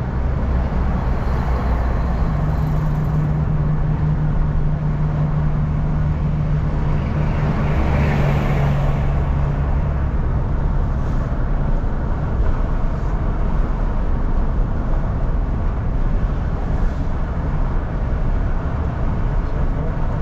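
Car interior while driving: steady engine hum and tyre rumble. A low droning tone holds from a couple of seconds in until about eleven seconds, and the road noise swells briefly about eight seconds in.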